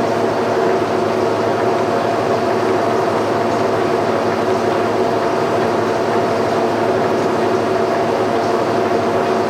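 Portable line-boring bar turning and back-boring a worn pivot hole in a steel trailer suspension frame, its drive running in a loud, steady whir with several held tones.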